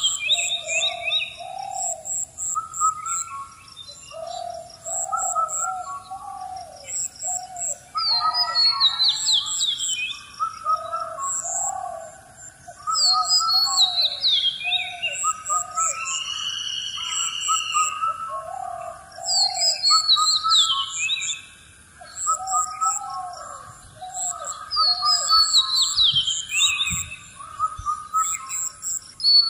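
Chirping and whistling bird calls: rising-and-falling whistled notes, high falling sweeps and rapid high pips, in a pattern that repeats about every six seconds.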